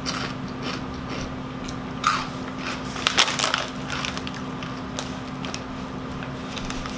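Doritos Dinamita rolled tortilla chips being chewed close to the microphone: scattered crisp crunches, with the loudest bursts about two and three seconds in.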